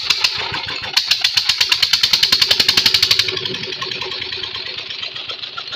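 Borewell pump engine running with a rapid, regular knocking beat that quickens, then settles into a smoother steady run about three seconds in.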